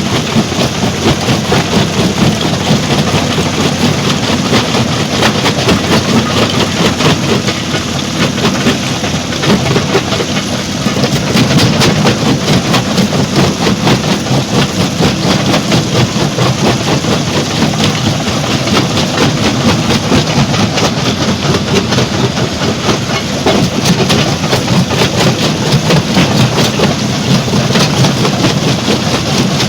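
Stone crusher plant running: heavy machinery with a dense, continuous clatter of rock over a low mechanical drone.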